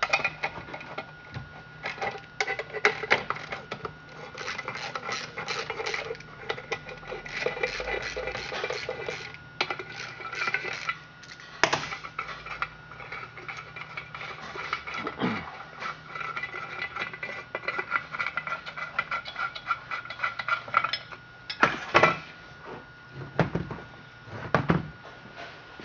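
Metal hand tools clinking, clicking and scraping on a McCulloch Super Pro 125 chainsaw as its muffler is unbolted and taken off, with a few louder knocks along the way.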